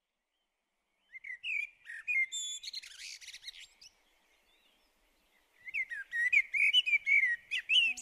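Songbirds singing: quick, warbling chirps in two stretches, the first starting about a second in and the second after a short pause past the halfway point.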